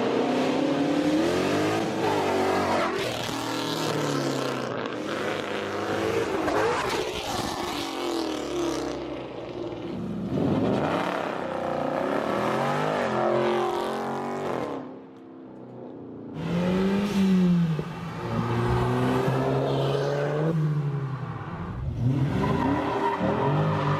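Car engines revving repeatedly, the pitch climbing and falling many times, with a brief lull about fifteen seconds in.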